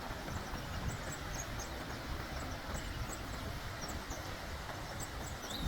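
Outdoor ambience: small birds chirping in short repeated notes over a steady low rumble.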